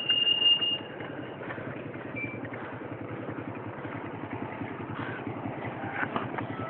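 A motorcycle engine running close by with a fast low pulsing. In the first second there is a short, loud, high steady tone.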